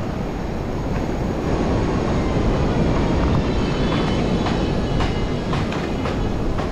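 Strong wind buffeting the microphone in a steady low rumble, with a few faint clicks and rattles in the second half.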